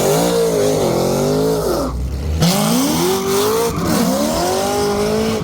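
Mustang V8 under hard throttle, its revs climbing and dropping several times, with a brief break about two seconds in.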